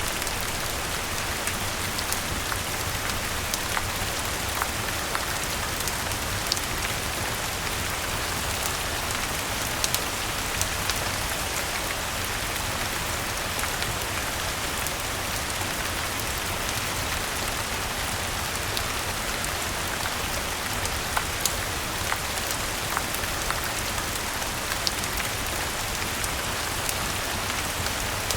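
Steady rainfall with scattered sharp clicks every second or two.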